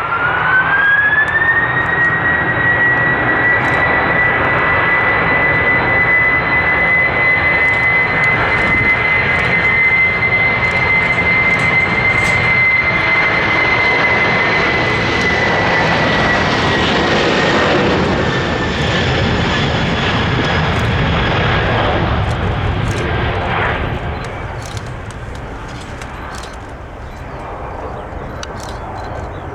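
Jet airliner's engines spooling up with a rising whine to takeoff power, then a steady high whine over a broad roar that fades away about three quarters of the way through.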